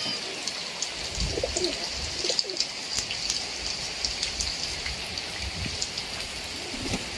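Steady heavy rain falling, with drops ticking close by, and a few short bird calls about a second and a half in and again about a second later.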